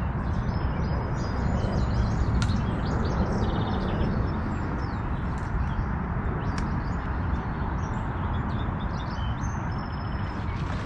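Small birds chirping in short high calls scattered throughout, over a steady low rushing noise.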